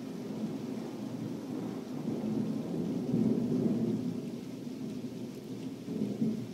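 Thunder rumbling in a long low roll that swells about two to four seconds in, with a second short burst near the end, over steady rain.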